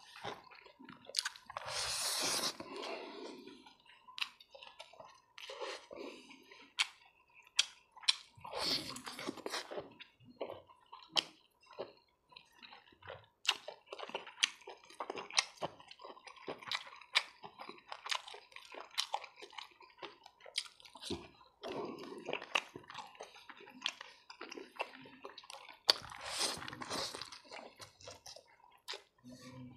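Close-up mouth sounds of a person eating boiled pork and rice by hand: wet chewing with many small smacking clicks. There are three louder rushing bursts, about two seconds in, about nine seconds in, and near the end.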